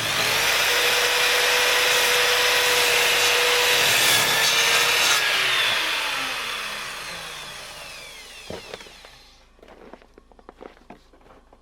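Electric power saw cutting through a wooden board, starting suddenly at full speed. About five seconds in the trigger is released and the blade winds down over several seconds, followed by a few light knocks of wood being handled.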